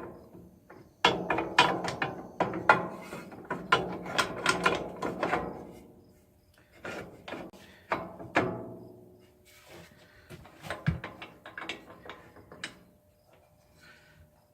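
Metal clicking and rattling as the drive belt is worked onto the pulleys of an old wood planer. There is a dense run of clicks in the first half, then scattered single clicks.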